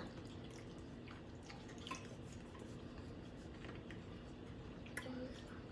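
Faint chewing and wet smacking of people eating shrimp boil in butter sauce, with a few small clicks, the sharpest about five seconds in.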